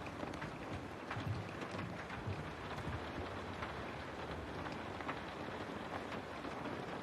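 Steady rain falling on a window, an even hiss with many scattered drops tapping on the glass.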